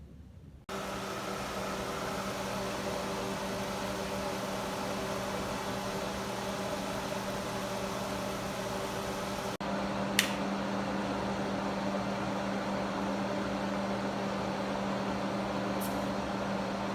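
An electric appliance switches on under a second in and runs with a steady hum. The hum breaks off for a split second a little past halfway, with a short click just after.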